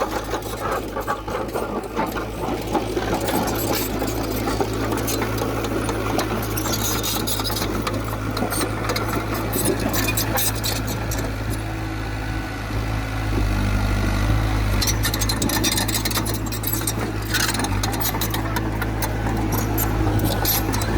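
The diesel engine of a heavy earthmoving machine runs steadily, with a rapid metallic clatter and rattle over it. It gets louder about 13 seconds in.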